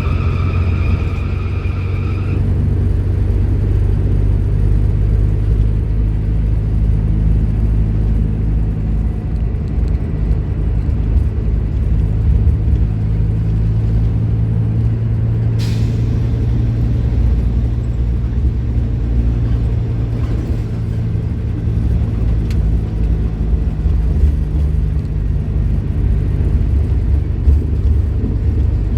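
Scania K310IB bus's diesel engine running at a steady low drone. A high steady tone stops about two seconds in, and a brief sharp hiss sounds about halfway through.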